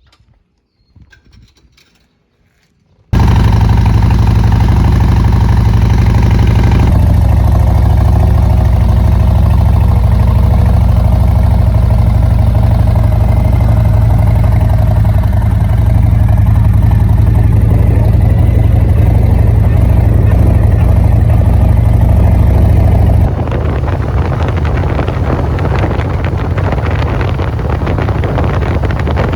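Motorcycle engine running at a steady speed while riding, very loud, cutting in abruptly about three seconds in. For the last six seconds or so the sound turns rougher, with wind buffeting the microphone.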